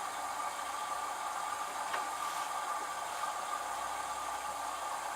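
LG F1222TD direct-drive washing machine running at the start of a Baby Care cycle with prewash: a steady hiss over a faint low hum, with a faint click about two seconds in.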